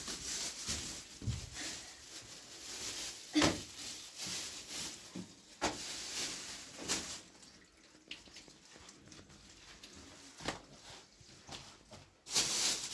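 Water splashing and dripping as hands are washed, with a few sharp knocks and a louder splash near the end.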